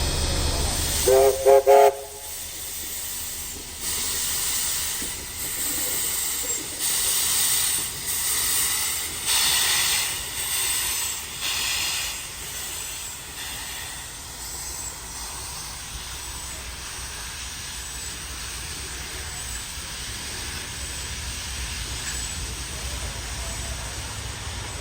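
Steam locomotive 3526 giving a short whistle blast, then its exhaust chuffing as it gets under way, about one beat a second and gradually quickening. The beats fade into a steady hiss and rumble about halfway through.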